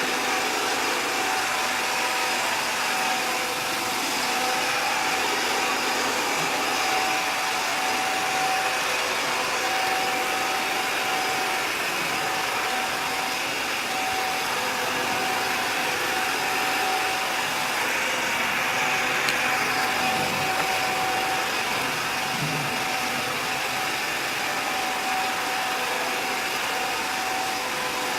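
Robot vacuum cleaner running: a steady whirring hum with a faint constant whine on top.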